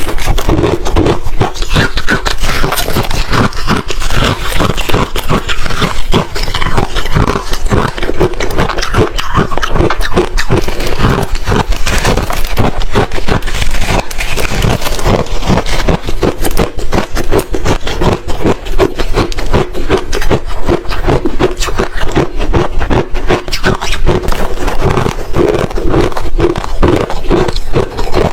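Hard ice being bitten and chewed close to the microphone: loud, continuous crunching and crackling with no pause.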